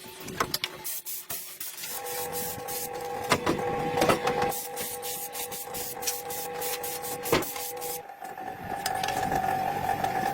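A small electric motor whirring steadily under many sharp clicks and taps, its pitch jumping abruptly twice.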